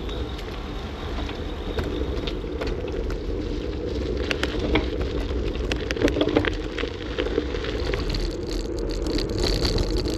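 Electric bicycle on the move: a steady rumble of wind and road noise, with many small rattles and clicks scattered throughout.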